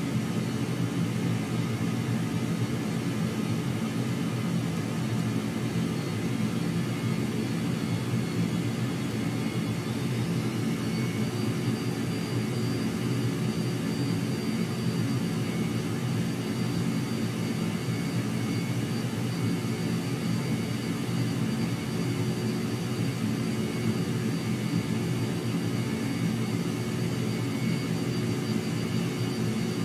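Jet aircraft engine running steadily, with a high whine that rises in pitch about ten seconds in and then holds.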